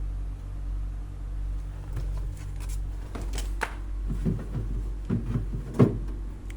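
Clicks and knocks from handling a small refrigerator, a few scattered then a quicker run, with the loudest knock near the end, over a steady low hum.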